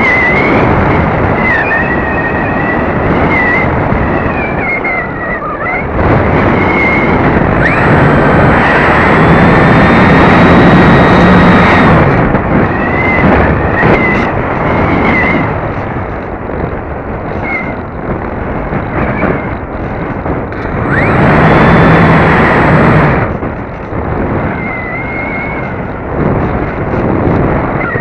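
RC glider's motor whining, its pitch wavering with throttle, under heavy wind rush on a cheap onboard keychain camera's microphone. It runs up louder twice: about eight seconds in for some four seconds, and again around twenty-one seconds in.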